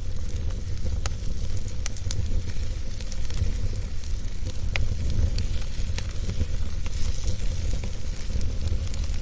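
Wood fire crackling in a fireplace: a steady low rumble with a hissing bed, and sharp pops and crackles at irregular moments.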